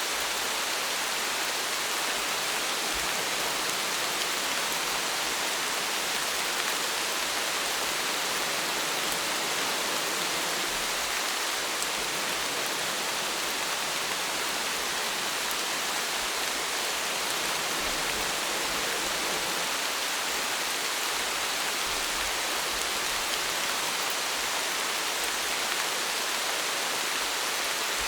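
Steady rainfall: an even hiss of rain with faint individual drops pattering, unchanging throughout.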